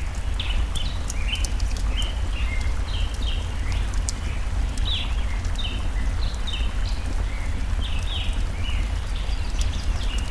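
Mixed nature ambience: a steady low rush of a flowing stream under a constant stream of short, falling bird chirps, with sharp pops and crackles from a burning wood fire.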